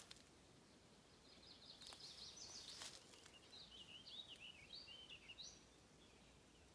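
Faint bird song: a quick run of short, high chirps lasting a few seconds, over quiet outdoor background, with a couple of faint clicks.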